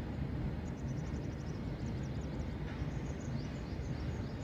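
Open freight wagons rolling past, a steady low rumble of wheels on rail. A small bird chirps in quick high trills over it from about a second in.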